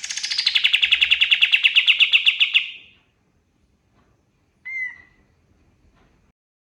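Kapas tembak singing: a loud rapid trill of about two and a half seconds that starts high and settles lower, followed a couple of seconds later by a single short call.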